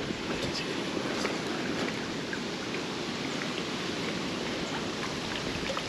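Strong wind blowing over the microphone as a steady rushing noise, with a few faint ticks.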